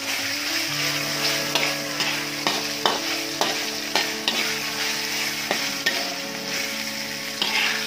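Chicken pieces and spice paste sizzling in a hot metal wok while being stir-fried, with a metal spatula scraping and knocking against the pan at irregular moments throughout.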